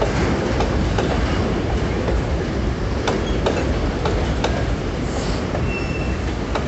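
Empty freight wagons, hopper cars and boxcars, rolling past close by with a steady rumble and irregular clacks of the wheels over the rail joints. Short high wheel squeals come in about five to six seconds in.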